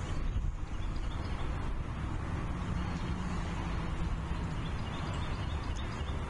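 Outdoor nest-cam ambience: a steady low rumble on the microphone, with a faint low hum for a couple of seconds in the middle and faint short bird chirps through it.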